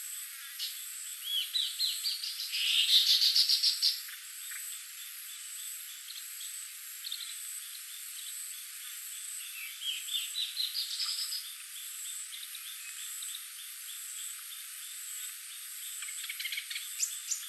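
Forest ambience: a steady high insect drone, broken three times by bursts of rapid, trilled animal calls that rise in pitch, the loudest a few seconds in.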